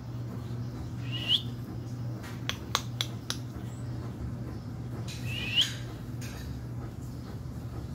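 Two short, high-pitched bird chirps, each rising quickly, about four seconds apart. Between them come four sharp clicks in quick succession, over a steady low hum.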